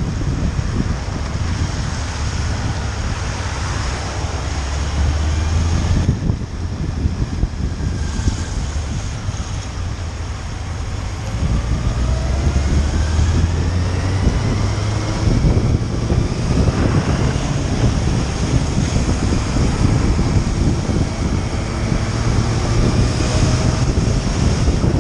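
Motorcycle engine running on the road, its pitch rising and falling several times with changes of speed and gear, under heavy wind noise on the microphone.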